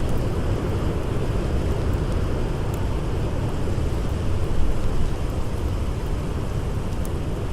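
Blizzard wind blowing as a steady, low rumbling rush, with a couple of faint crackles from a campfire.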